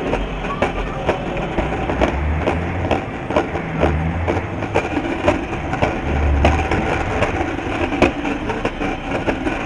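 Steady rushing noise from wind and travel, with low rumbling gusts buffeting the microphone and irregular sharp clicks and rattles about once or twice a second.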